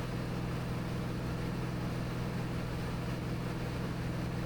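Cirrus SR22T's turbocharged six-cylinder engine and four-blade propeller running steadily in flight, a constant low drone heard inside the cabin.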